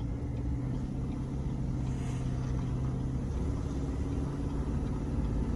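Chevrolet Silverado Trail Boss's 6.2-litre V8 running steadily at low speed under load while towing another pickup, with low road rumble, heard from inside the cab. The engine note shifts slightly about halfway through.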